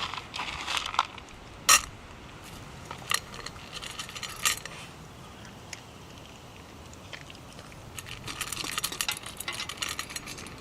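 Light clinks and clicks of small hard objects being handled: a few separate sharp clicks, the loudest about two seconds in, then a quicker run of small rattling clinks near the end.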